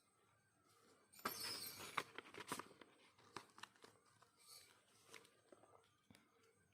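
Packaging being handled in an unboxing: a burst of tearing and rustling with sharp clicks about a second in, then scattered small rustles and clicks.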